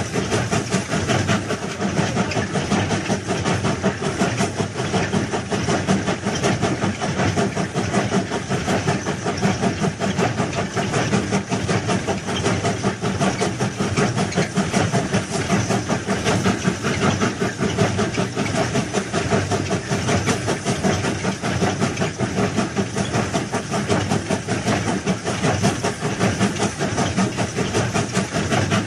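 Railway machinery or a rail vehicle running steadily on the track, giving a continuous dense rattle with a hiss.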